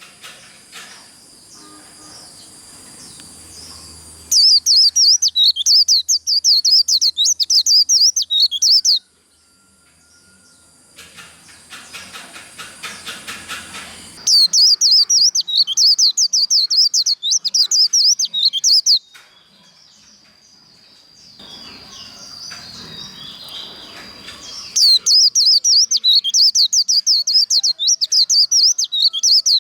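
White-eye (vành khuyên) singing its rapid, twittering 'líu' song, the fast competition song that keepers train for, in three loud bursts of about five seconds each. Quieter chirps and calls come between the bursts.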